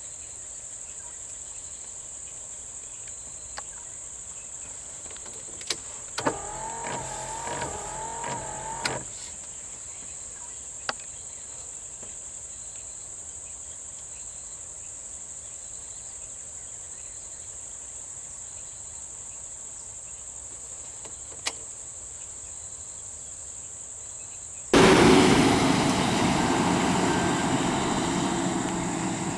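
Crickets and other insects keep up a steady, high-pitched chorus, with a few sharp clicks. About a quarter of the way in comes a brief wavering tone. Near the end a sudden loud rushing noise starts and slowly fades over several seconds.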